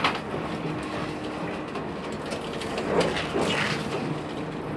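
Passenger train running on the rails, heard from inside the car: a steady rolling rumble and hum with a sharp click right at the start and a louder rattle about three seconds in.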